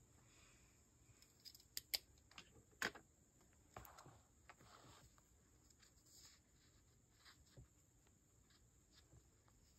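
Faint desk handling sounds: a few scattered sharp clicks and taps in the first three seconds, then soft brief rustles, as of paper and stationery being handled while journaling.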